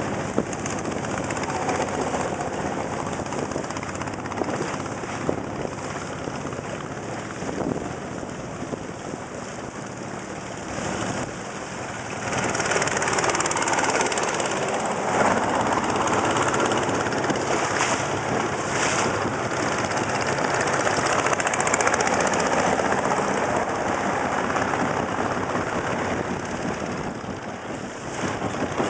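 Motor boat engine running steadily under way, mixed with the rush of water and wind. It grows louder about twelve seconds in.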